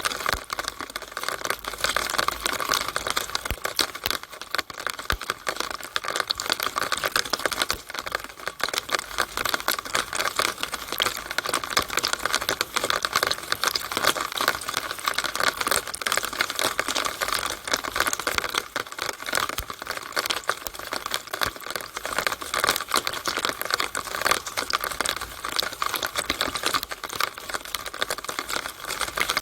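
Rainwater running down and dripping inside a rain downspout: a steady, dense stream of small ticking drips and splashes with no break.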